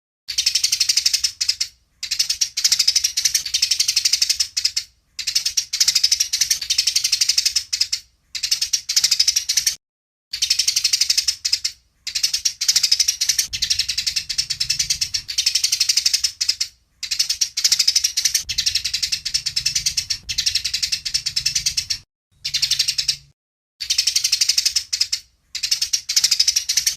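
Eurasian tree sparrows chirping rapidly and agitatedly, the excited 'fighting' chatter used as masteran training song. The chirping comes in dense bouts of one to five seconds broken by short silent gaps.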